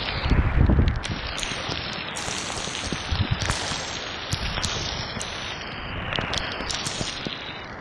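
Rain and hail coming down hard: a steady hiss of rain with many sharp ticks of stones striking surfaces. Wind gusts buffet the microphone with a low rumble, strongest in the first second.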